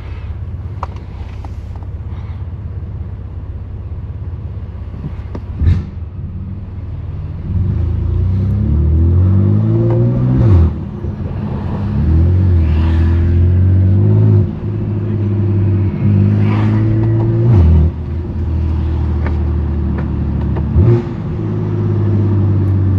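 The twin-turbo S55 straight-six of a 2018 BMW M3 Competition, with a straight-piped exhaust, runs low and steady for several seconds. It then pulls repeatedly, its pitch rising and dropping sharply at the gear changes. Several brief loud cracks come through, mostly at the shifts.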